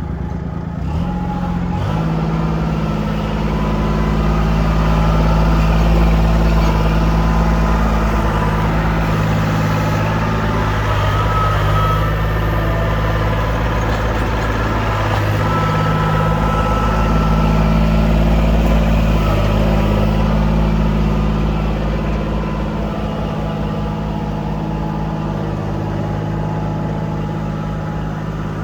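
Kubota L2501 tractor's diesel engine running steadily under throttle. Its pitch steps up about a second in, then holds, with the level swelling and easing a little.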